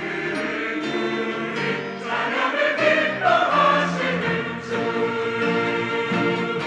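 Church choir singing a sacred anthem with instrumental accompaniment.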